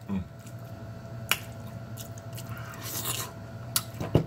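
Close-up eating sounds: chewing, with a few sharp clicks of a fork on a plate and a stronger knock near the end, over a steady low hum.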